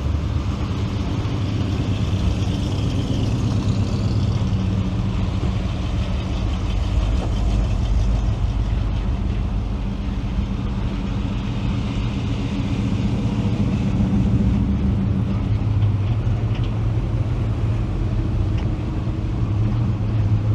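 Classic cars' engines running at low speed, a steady low rumble.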